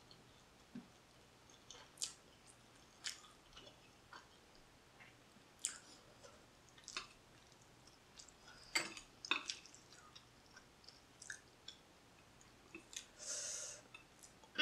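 Faint chewing of spicy ramen noodles, with scattered wet mouth smacks and clicks about every second, and a short hiss near the end.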